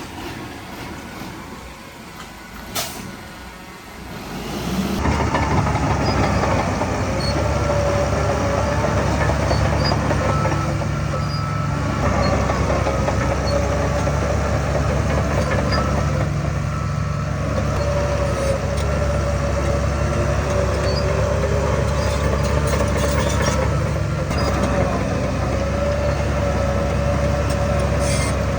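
Heavy earthmoving machine's diesel engine, coming in loud about four seconds in and then running steadily, with a whine that wavers in pitch over it. One sharp click just before it comes in.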